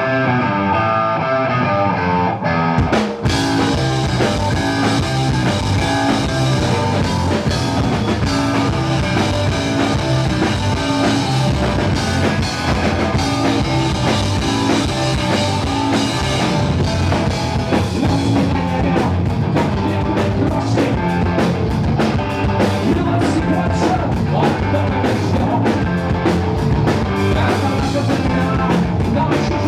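Live rock band playing the opening of a song: electric guitar alone for about two seconds, then drums and the full band come in on a sharp hit and play on at full volume.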